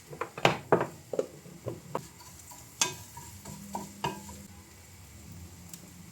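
A quick, irregular series of sharp clinks and knocks of kitchenware, a few of them ringing briefly, dying away about four seconds in.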